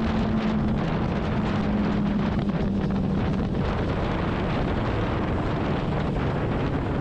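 Honda CBR600RR inline-four engine running at a steady road speed, its note dipping slightly a few seconds in, under heavy wind noise on the rider's microphone.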